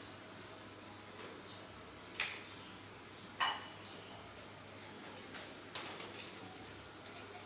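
Two sharp clicks about a second apart, then a few fainter ticks, over a low steady hum.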